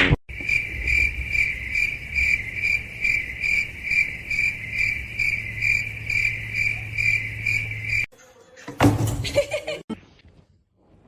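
Cricket chirping in an even rhythm of about two to three chirps a second over a low hum. It cuts off abruptly about eight seconds in, and a brief louder sound follows.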